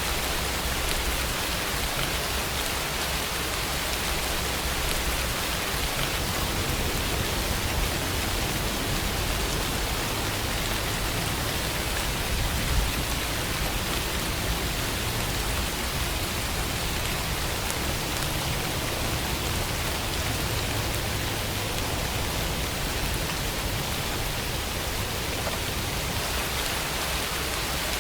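Steady rainfall: an even, unbroken hiss of rain falling.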